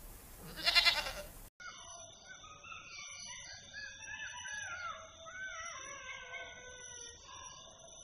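A goat bleats once, loud and short, about half a second in. After a sudden break, birds chirp and sing steadily for the rest.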